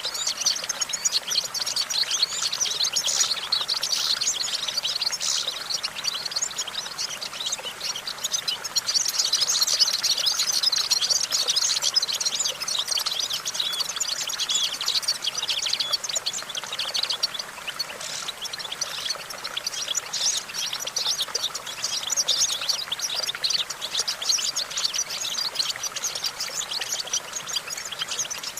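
European goldfinch singing: a continuous, rapid run of high twittering chirps and trills without pauses.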